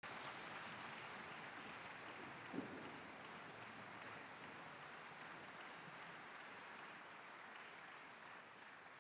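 Audience applause, fairly soft and slowly dying away, with a single thump about two and a half seconds in.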